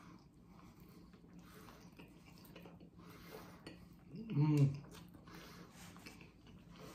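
A person chewing a mouthful of burger, soft wet mouth sounds, with a short hummed vocal sound about four seconds in, the loudest thing.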